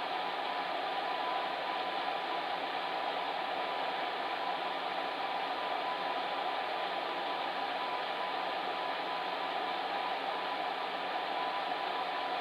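Electric fan heater running: a steady, even blowing hiss of fan and airflow with a faint hum, unchanging throughout.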